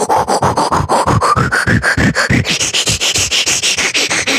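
Beatboxed mouth imitation of a rasping, rubbing sound: rapid strokes at about ten a second, with a tone that rises in pitch over the first couple of seconds.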